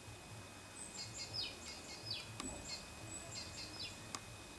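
Small bird chirping in the background, two quick runs of high falling chirps, with two sharp clicks near the middle and the end.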